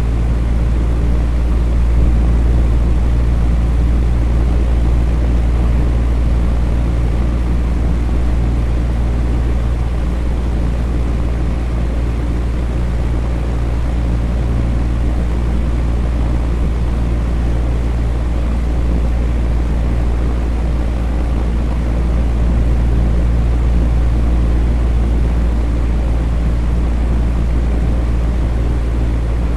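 Electric fan running steadily: a low motor hum with a few steady tones under an even rush of moving air.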